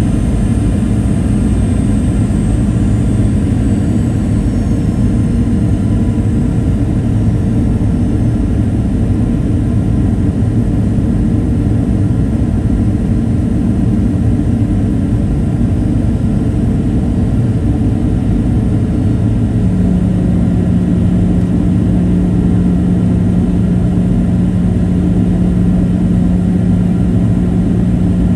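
Steady cabin noise inside a Boeing 737-800 in flight, a dense rush of airflow and CFM56-7B engine noise heard from a forward cabin seat. A strong steady low hum joins in about twenty seconds in and holds.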